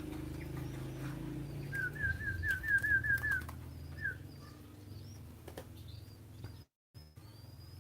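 A spotted dove flapping its wings in fits over a low steady rumble. A quick run of about seven high chirps from a small bird comes around two to three seconds in, one more follows a moment later, and faint high bird calls come near the end.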